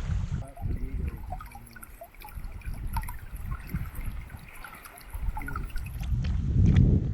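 Wind rumbling on the microphone, gusting strongest near the end, over faint trickling water.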